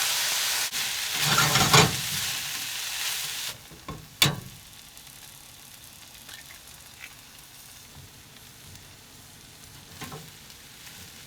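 Fried rice sizzling in a hot pan as it is stirred, louder for a moment about a second in. The sizzle cuts off abruptly about three and a half seconds in, followed by a single sharp click and then only faint background.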